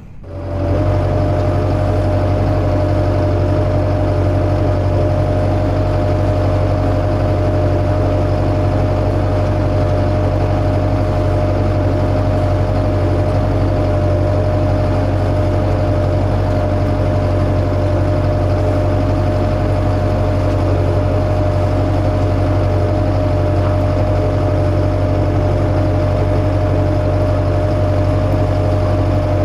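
A machine engine running steadily at constant speed, a low drone with a steady whine above it that begins abruptly and does not change.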